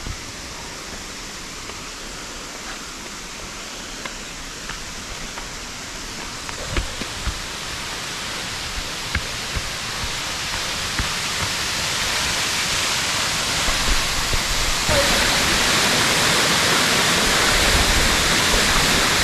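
Rushing water of a waterfall, a steady roar that grows louder, with a step up about three-quarters of the way through and a few soft knocks.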